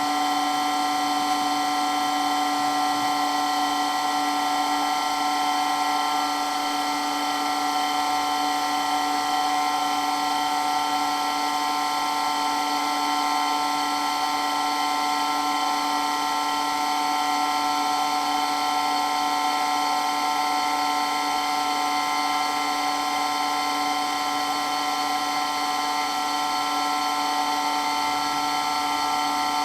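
Water pump running steadily, a constant whine made of several steady tones over a hiss, with no change in speed.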